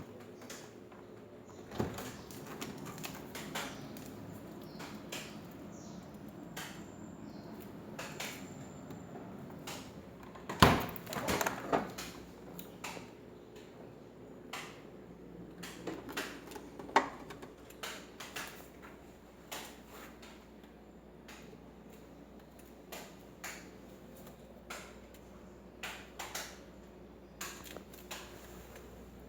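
Scattered clicks, knocks and rattles of objects being handled, loudest in a cluster about 11 seconds in and again about 17 seconds in, over a steady faint hum.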